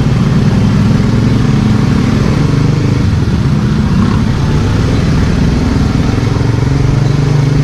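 Small motorcycle engine running steadily at low speed, heard from the rider's own bike.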